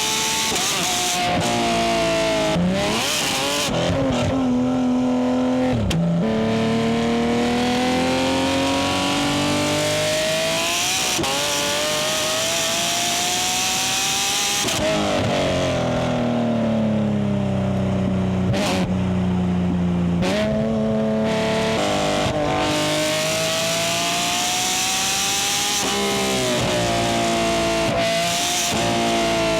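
Porsche 911 GT3's naturally aspirated flat-six under a loud exhaust while the car is driven: revs climb in stretches and drop abruptly at the gear changes, with one long steady fall in pitch as it slows.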